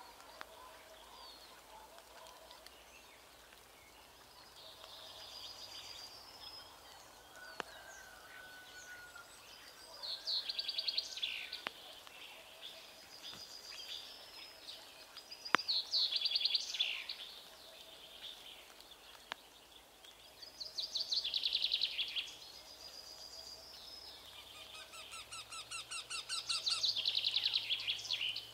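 Wild bird calls: about five bouts of rapid, high-pitched trilling, each one to two seconds long, with a faint whistle between them. A single sharp click comes about halfway through.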